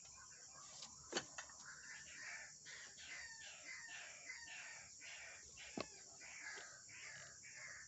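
White-breasted waterhen (ruak-ruak) calling: a faint, quick run of repeated croaking notes, about three a second. Two sharp clicks come through, one about a second in and one near six seconds.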